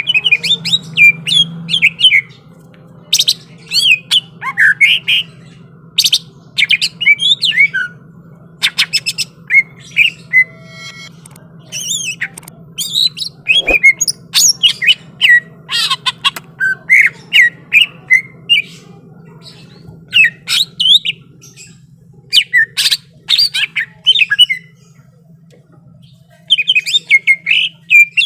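Green leafbird (cucak ijo) singing in a fighting mood: fast phrases of sliding whistles and sharp, harsh notes, broken by short pauses, over a steady low hum.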